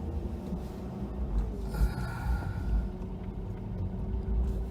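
Ford F-250 plow truck's engine running, heard from inside the cab as a steady low rumble with a steady hum over it. About two seconds in, a brief higher whir rises over it for roughly a second.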